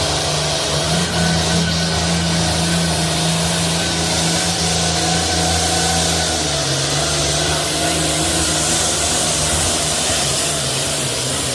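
Competition puller's engine running hard at high revs under load during a pull, with a high steady whine above it. The engine note drops slightly about six and a half seconds in.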